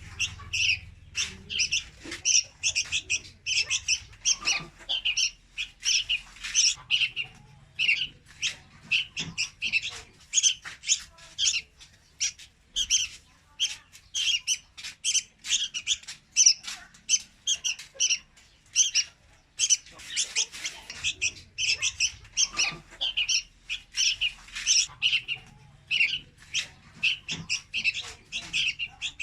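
Young red-whiskered bulbul calling: a dense run of short, high chirps, several a second, with brief lulls.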